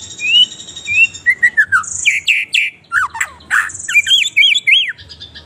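Songbirds singing: a fast, varied run of clear whistled notes that slide up and down, mixed with harsh buzzy notes.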